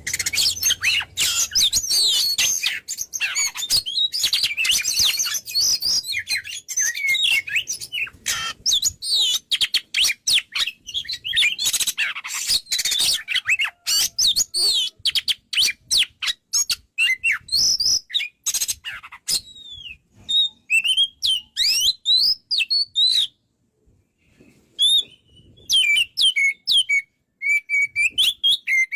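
Oriental magpie-robin (kacer) singing vigorously in fast, varied whistles and chattering notes. The song is dense and continuous at first, then from about two-thirds of the way through it comes in shorter phrases with brief pauses.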